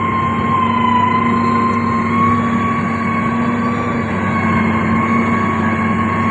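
Heavy road-construction machine running steadily, its engine hum carrying a continuous high-pitched whine that wavers slightly in pitch.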